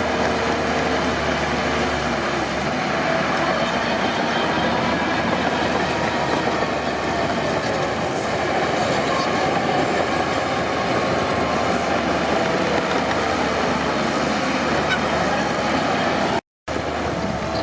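Crawler bulldozer at work, its diesel engine and steel tracks running steadily. The sound cuts out completely for a moment near the end.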